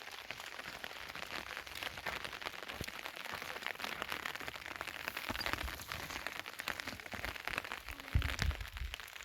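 Heavy rain falling, a dense patter of drops striking a surface. A low rumble comes in about eight seconds in.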